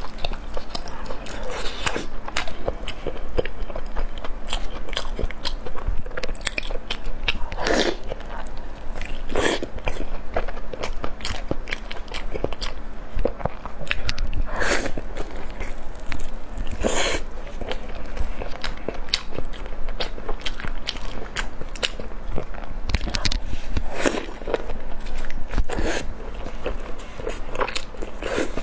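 A person chewing and biting soft, sauce-coated food close to the microphone: a steady stream of wet mouth clicks, with louder bites every few seconds.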